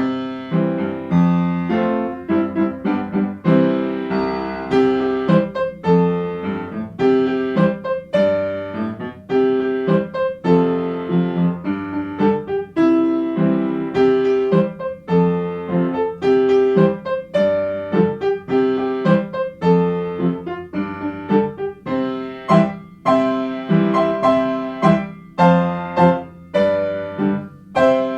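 Piano music: a steady flow of struck notes and chords that ring on between strikes.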